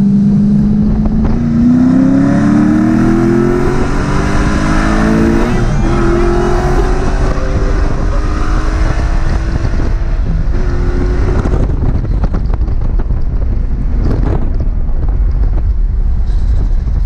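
Car engine accelerating hard, its note climbing, dropping at a gear change about five and a half seconds in, then climbing again. About twelve seconds in the engine note fades into a steady rush of wind and road noise with small clicks.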